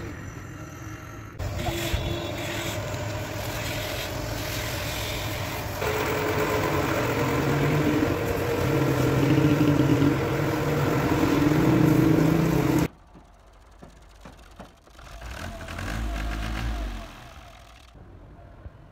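A vehicle engine running steadily, getting louder about six seconds in, then cutting off abruptly about two-thirds of the way through, leaving quieter background sound.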